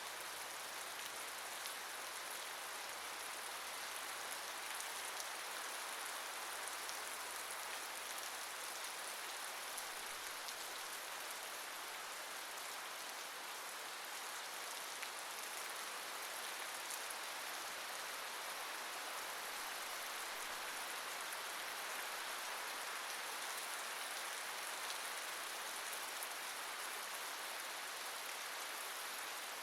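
Steady rain falling and pattering on a surface, an even hiss with fine drop ticks and no pauses.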